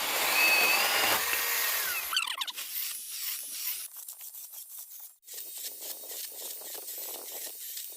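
Battery-powered 4-inch mini chainsaw cutting through green wood, its motor whining under the chain noise for about two seconds before it stops. Quieter scraping and light knocks of wood follow.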